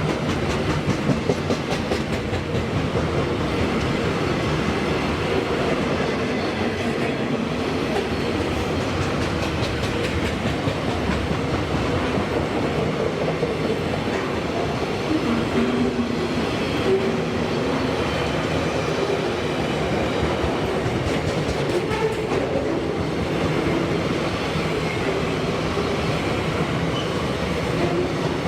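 Freight train wagons rolling past at a steady pace, with a continuous rumble and the rhythmic click of wheels over rail joints.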